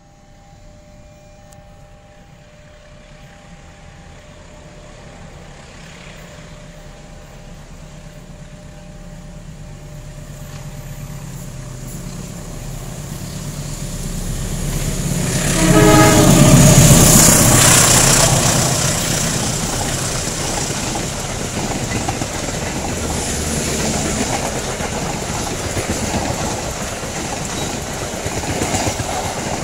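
A CC203 diesel-electric locomotive hauling a passenger train approaches, growing steadily louder. About halfway through it passes close with a short horn blast. The coaches then roll by with steady wheel and rail clatter.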